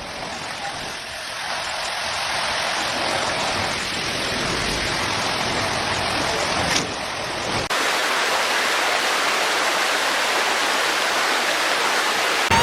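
Steady rushing-water noise of floodwater and heavy rain. An abrupt cut about two-thirds of the way through gives way to a louder, hissier stretch of the same kind of noise.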